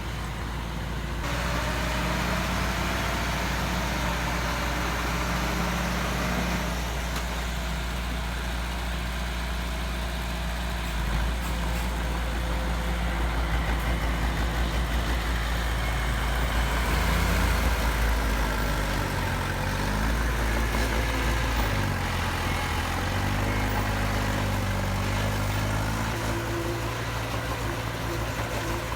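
Diesel engine of heavy construction machinery running steadily, its pitch stepping up and down a few times in the second half.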